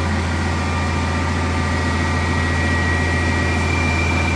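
Crane truck's engine running at a steady speed, a constant deep drone with a thin high whine over it.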